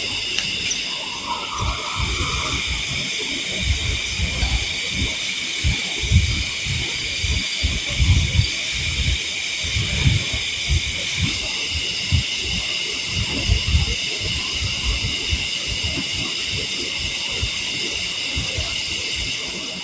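Night insects singing in a steady high-pitched chorus of several overlapping tones, with irregular low rumbling underneath.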